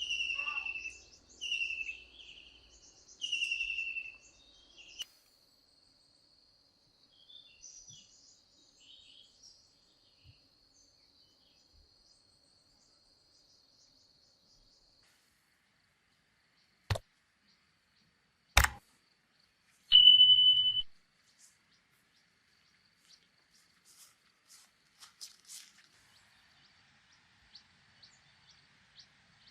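Bird calls in rural surroundings: a run of four loud, falling calls in the first few seconds over a faint steady high insect-like tone, then two sharp clicks and a brief steady whistle near the middle, and faint scattered chirps near the end.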